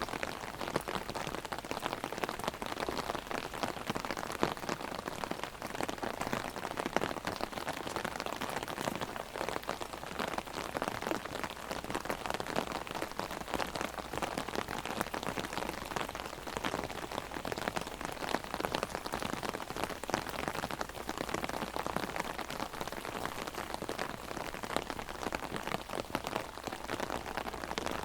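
Heavy rain hitting an umbrella held overhead: a dense, steady spatter of countless drops.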